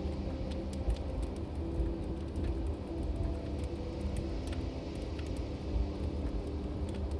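Log fire burning: a steady low rumble of flames with frequent small sharp crackles and pops scattered throughout. Faint sustained low tones run underneath.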